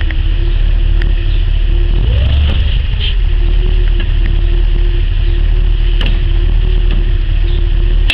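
1955 Dodge Royal Lancer's 270 cubic-inch Red Ram V8 running, heard from inside the cabin: a steady deep rumble with a humming note that rises briefly and falls back about two seconds in.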